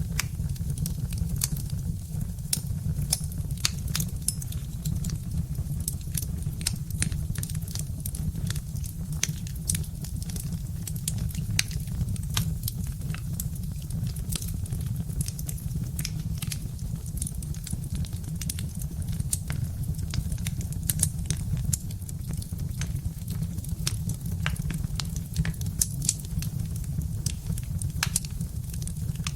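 Birch-wood fire crackling: irregular sharp pops and snaps, several a second, over a steady low rumble.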